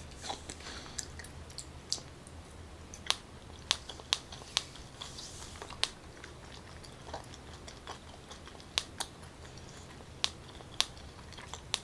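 A person chewing a mouthful of takoyaki (battered octopus balls) with the mouth closed: irregular small clicks and smacks of the mouth, a dozen or so, spread unevenly.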